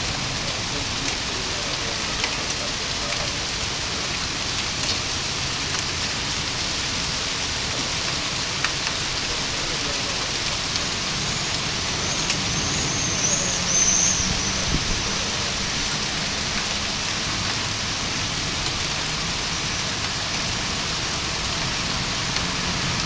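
Steady hiss of heavy rain falling during a thunderstorm, with scattered faint drip ticks. A brief, faint high-pitched warble sounds about two-thirds of the way through.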